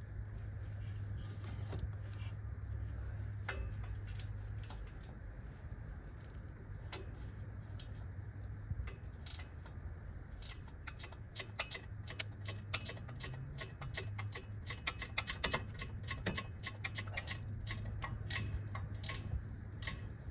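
Ratchet wrench clicking in quick runs of strokes, sparse at first and much denser from about halfway, over a steady low hum.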